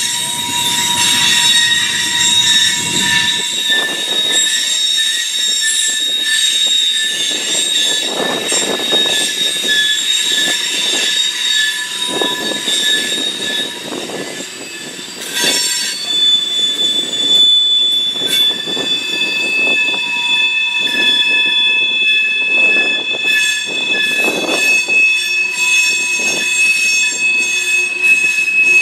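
Freight train of tank cars, flatcars and covered hoppers rolling past, its wheels squealing with several steady high-pitched tones over the rumble and clatter of the cars. About two-thirds of the way through, the squeal drops to a lower pitch.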